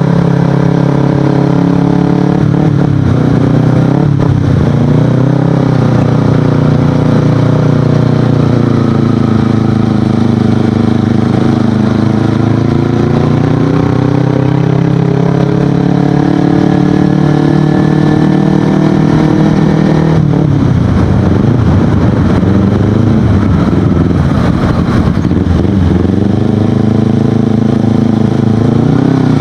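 Kawasaki Ninja 250FI parallel-twin engine through an Akrapovic exhaust while riding, its pitch dipping and rising several times as the throttle closes and opens, with a rougher, unsettled patch about two-thirds of the way through.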